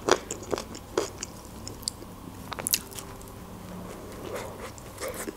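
A person chewing shawarma close to the microphone, with scattered short mouth clicks and smacks, then biting into the soft lavash-wrapped shawarma near the end.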